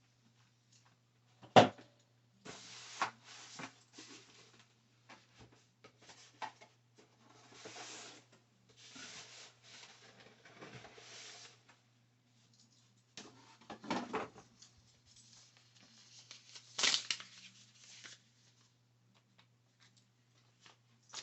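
Packaging and paperwork being handled during an unboxing: rustling in several stretches, with a sharp knock about a second and a half in and two louder knocks later on, over a faint steady hum.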